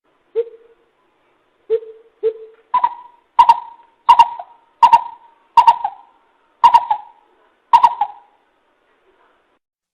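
Coucal (bìm bịp) giving a series of deep hoots: three fainter low ones, then seven louder, higher-pitched ones at a slow, even pace, each starting with a sharp click.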